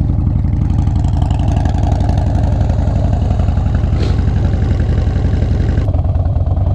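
Harley-Davidson V-twin motorcycle engine idling steadily, loud and close, with an even pulsing beat.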